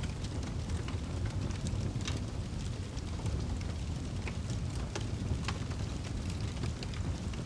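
Wood fire in a fireplace burning, with irregular sharp crackles and pops over a steady low rumble of the flames.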